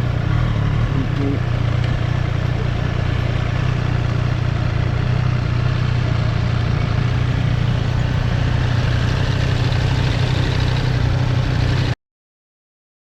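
2024 Triumph Street Triple's inline three-cylinder engine running steadily, heard from the rider's position, until the sound cuts off abruptly about twelve seconds in.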